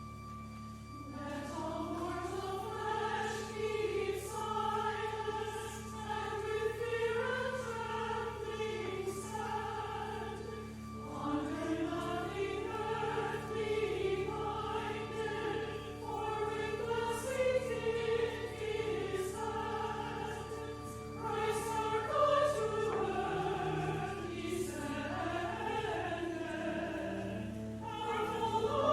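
Church chancel choir singing a Christmas choral piece over sustained held accompaniment notes; the voices come in about a second in and sing in phrases with short breaths between them.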